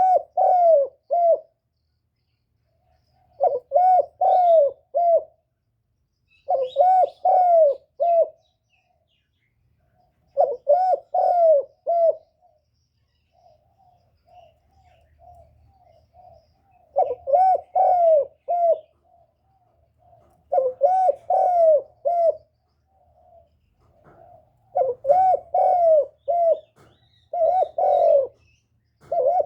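Spotted dove cooing: repeated phrases of three or four short coos, one phrase every few seconds. A softer run of quick low notes comes midway.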